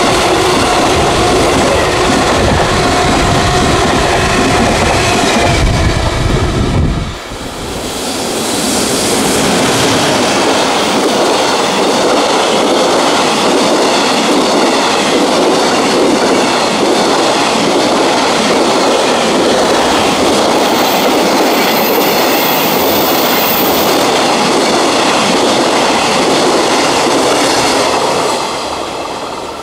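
Electric-locomotive-hauled freight train running past at speed. For the first seven seconds there are steady humming tones over a deep rumble. After a sudden break, a long string of wagons rushes by with a dense wheel-and-rail roar and clickety-clack, fading near the end.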